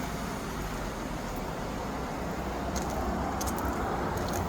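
Outdoor background of road traffic with a low rumble, and a vehicle swelling past near the end.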